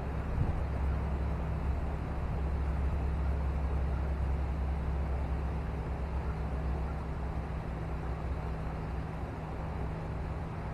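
A steady low mechanical hum with an even rushing noise over it, like an engine or machine running.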